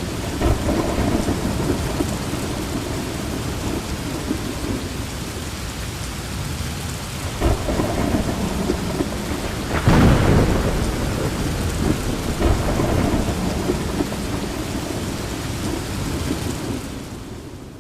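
Steady heavy rain with rumbles of thunder; the loudest thunderclap comes about ten seconds in, and the whole sound fades out near the end.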